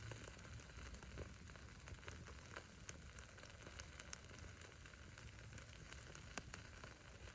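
Faint wood bonfire crackling: firewood pops and snaps at irregular moments, the sharpest about six seconds in, over a low steady rumble of the flames.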